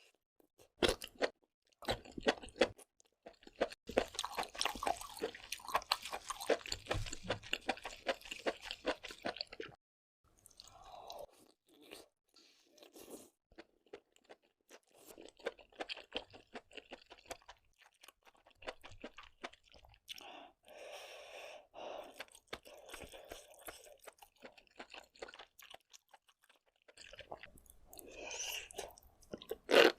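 Close-miked mouth sounds of a person eating seafood: crunching and chewing. A few sharp crunches come first, then a dense run of crackly crunching until about ten seconds in, then quieter chewing that grows louder again near the end.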